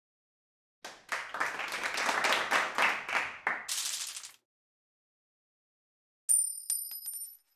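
Applause, a crowd clapping for about three and a half seconds, then after a short pause a bright metallic ring with a few quick clinks that keeps ringing.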